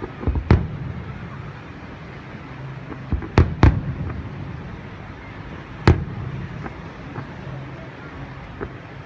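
Aerial fireworks bursting overhead in sharp bangs: a pair near the start, three close together about three and a half seconds in, a single loud one about six seconds in, then fainter pops. Between the bangs there is a steady low rumble.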